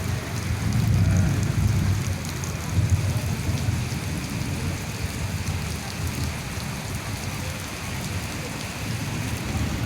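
Steady heavy rain on surfaces with scattered drips. A deep low rumble swells in the first few seconds and then eases off.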